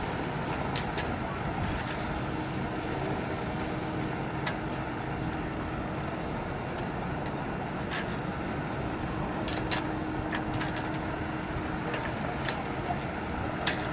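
Steady engine rumble and hiss from boats on the water, with a faint steady hum and scattered light clicks and knocks.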